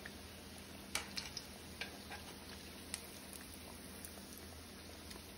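Croquettes shallow-frying in hot oil, a steady soft sizzle with a few sharp clicks, the loudest about a second in.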